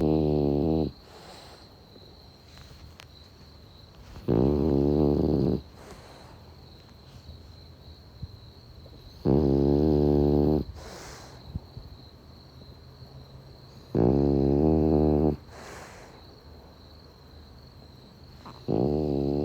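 A French bulldog snoring: a loud snore lasting about a second and a half, one every four to five seconds, five in all, the first already under way at the start. Summer crickets chirp as a steady high trill beneath the snores.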